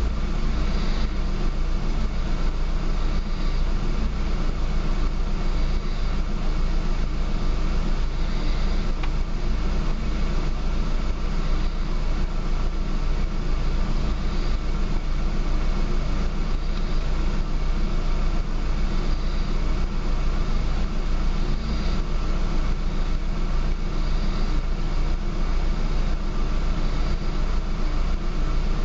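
Ford Focus Mk1 engine idling roughly, running steadily with an uneven low pulsing.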